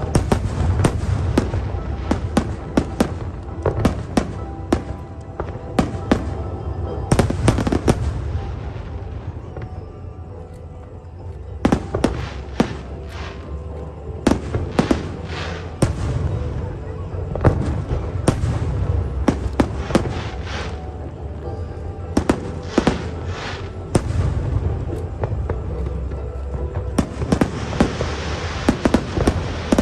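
Aerial fireworks display: a rapid series of sharp bangs and deep booms of shells bursting, easing into a short lull about ten seconds in, then picking up again, with dense crackling near the end.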